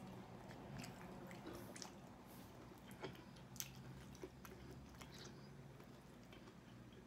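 Faint wet chewing and lip-smacking while eating chicken wings, with a few sharp mouth clicks, over a low steady hum.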